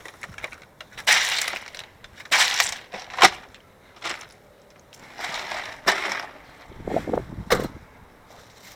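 Handling noise: several bursts of crinkling and rustling, with a sharp knock about three seconds in.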